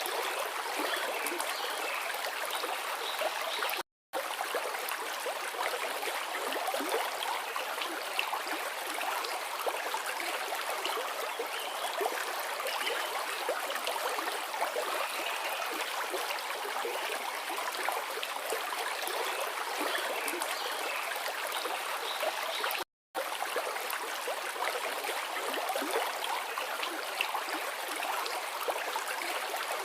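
Forest river flowing steadily, a continuous rush of water with small gurgles and splashes over it. The sound cuts out to silence twice for a split second, once about four seconds in and once past the twenty-second mark.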